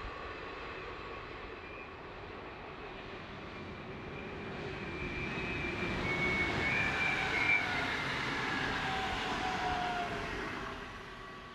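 Intermodal freight train rolling past on the rails, with a few high whining tones over the rolling noise that drift slightly down in pitch. The sound swells about four seconds in and fades near the end.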